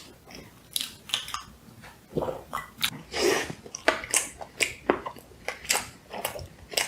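Close-up chewing and biting into a pastry: irregular wet mouth clicks and smacks, several a second.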